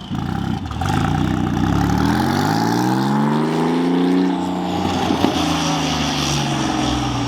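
Car engine accelerating: its pitch climbs steadily for about three seconds, then eases off and falls as the driver lifts.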